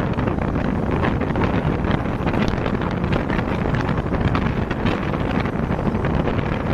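Express train running fast through a station without stopping: a steady rush of noise with quick scattered clicks from the wheels and track, and wind buffeting the microphone.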